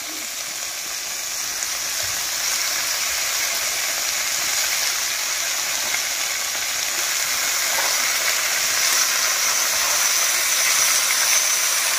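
Diced vegetables sizzling steadily in hot oil in a karai as handfuls of shredded cabbage are dropped in on top, the sizzle growing slightly louder.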